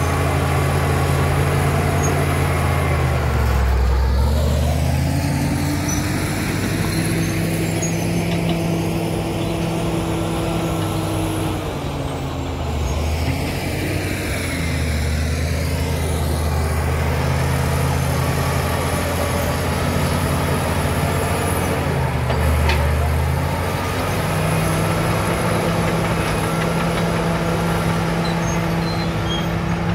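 Caterpillar D7 bulldozer's diesel engine working, its pitch dipping and recovering three times as it loads and unloads. A high whine that glides in pitch runs over it.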